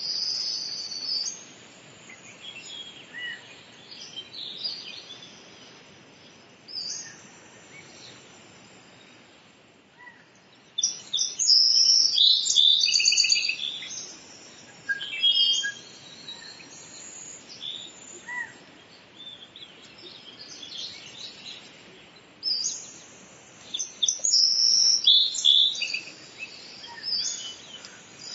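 Songbirds chirping and singing in quick clusters of short high calls over a faint steady hiss of outdoor ambience, with two busier spells of calling.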